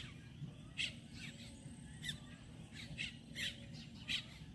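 Birds calling: short, sharp chirps that drop in pitch, repeated roughly once a second, over a faint low steady background rumble.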